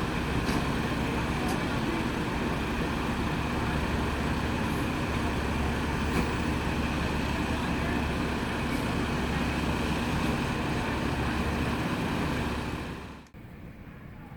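Steady road traffic noise with a low engine hum, cutting off abruptly about 13 seconds in.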